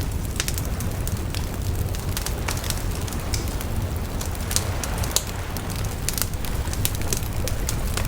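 Wood bonfire crackling, with frequent irregular sharp pops and snaps over a steady low rumble.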